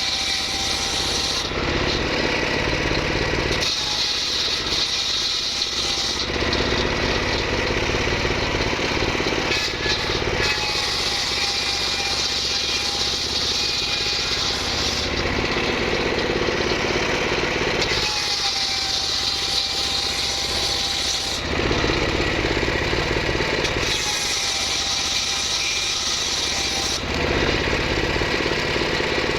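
Power saw cutting mahogany wood, running continuously, its sound shifting back and forth every few seconds.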